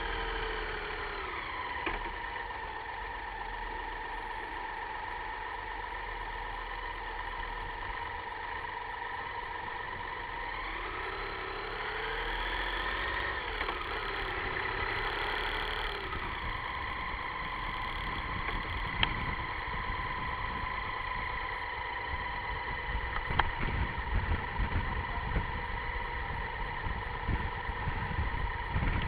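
Car engine running steadily, its pitch rising and then falling back about halfway through. Low gusts of wind buffet the microphone, growing stronger in the second half.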